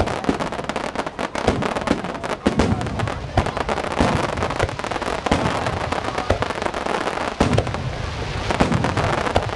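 Aerial fireworks display going off without let-up: a rapid string of sharp cracks and pops with deeper booms among them.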